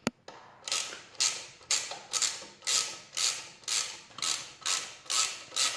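Socket ratchet wrench tightening an exhaust header bolt, worked in short repeated strokes, about two a second, each a quick rasp of ratchet clicks.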